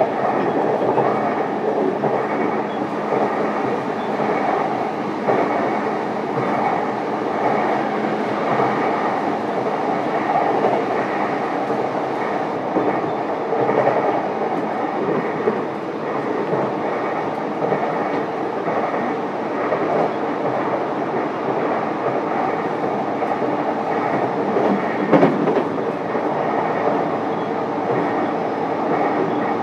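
Running noise heard inside the motor car of a JR East E233-series electric commuter train travelling between stations. There is a steady rumble of wheels on rail with a clickety-clack over the joints, and one brief louder knock near the end.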